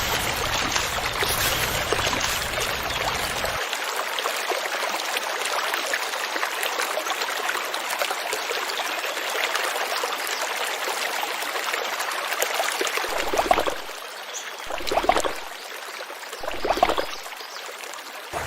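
Water running steadily in a stream, with three louder gushes about a second and a half apart near the end.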